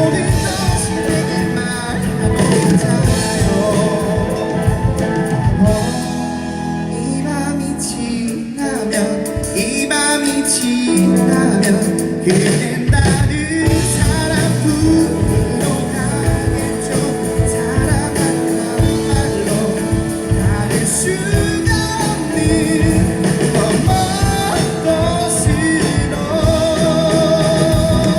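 A live rock band playing, with drum kit and guitar under a singing voice.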